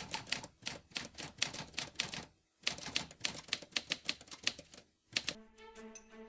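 Typewriter keys clacking in a fast, uneven run of strokes, with two short pauses about two and a half and five seconds in. Music with steady held notes comes back in near the end.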